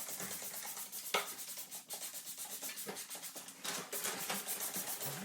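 Quick, even rubbing strokes, with a sharp click about a second in and another near three seconds in.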